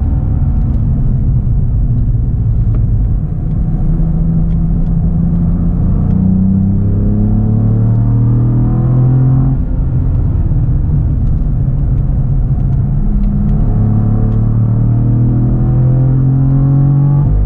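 Cadillac CT4-V Blackwing's twin-turbo 3.6-litre V6 pulling in third gear, heard from inside the cabin. The engine note climbs, drops sharply about halfway through, then climbs again toward the end.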